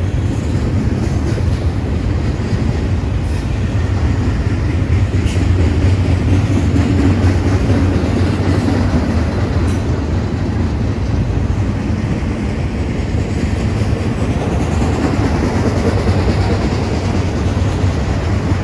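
Double-stack intermodal freight train cars rolling past: a steady, low rumble of steel wheels on the rails.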